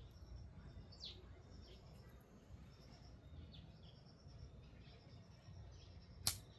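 A drying mung bean pod bursts open once near the end with a single sharp crack, as the pod twists and flings out its beans. Birds chirp faintly throughout.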